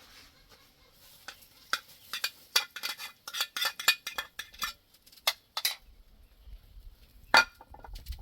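Dishes and metal utensils clinking and clattering as they are handled: a quick run of clinks for a few seconds, then one loud clink near the end, over a low rumble.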